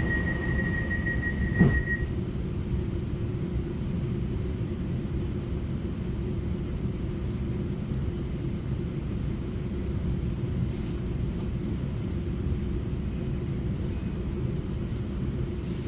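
Taiwan Railway EMU900 electric multiple unit running along the line, heard from inside the carriage: a steady low rumble with a faint hum. A thin high steady tone stops about two seconds in, and a single sharp knock comes just before it.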